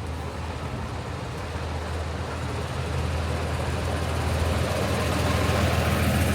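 A vehicle engine running steadily, with outdoor wind noise, growing gradually louder.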